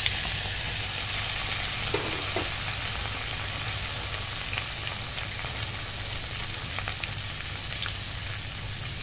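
Raw green mango pieces sizzling steadily in hot mustard oil in a kadhai, with a few small pops scattered through.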